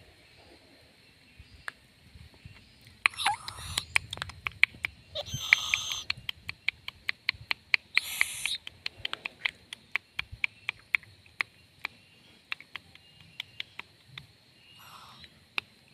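Baby owl giving harsh, hoarse hissing screeches: three loud ones a few seconds in and a fainter one near the end. Sharp clicks run through the whole stretch, coming several a second in the second half.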